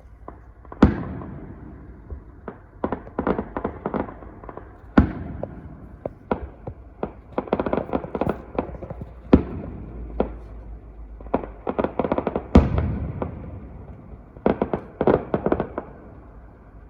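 Fireworks going off: a series of loud single bangs, the biggest about a second in, near five, near nine and near twelve and a half seconds, with runs of rapid crackling pops between them.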